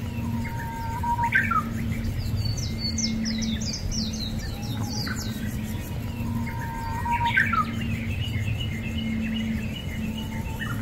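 Small wild birds chirping and calling, with quick high notes that cluster about a third of the way in and again near the end, over a low hum.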